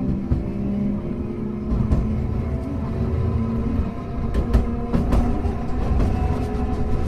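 Hankai Tramway car 351 running, heard from inside: steady wheel-on-rail rumble under a whine of several tones from the motors and gears, with sharp clicks from the track, two of them about four and a half and five seconds in.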